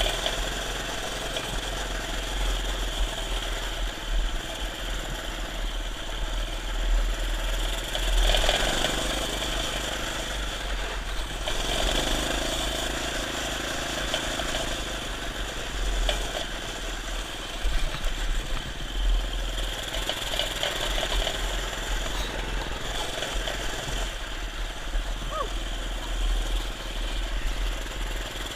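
A minibike's small engine running while it is ridden, its sound swelling and easing every few seconds as the throttle and speed change.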